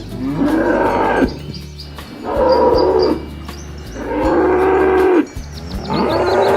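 Cows mooing: four long moos in quick succession, each about a second, rising at the start then holding steady, over background music.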